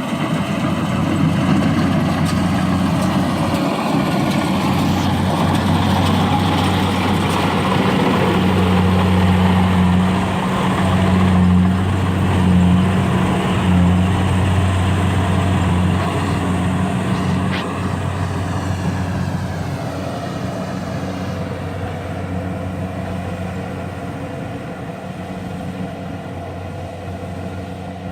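An engine running steadily with a strong low hum, then gradually getting quieter over the last ten seconds or so.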